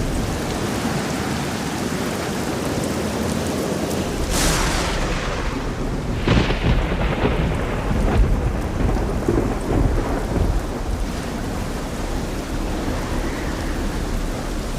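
Steady rain with thunder: a sharp crack about four seconds in and a second about two seconds later, followed by a few seconds of rumbling before only the rain remains.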